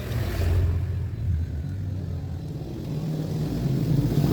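Motor vehicle engine running, a low rumble that swells about half a second in and again near the end.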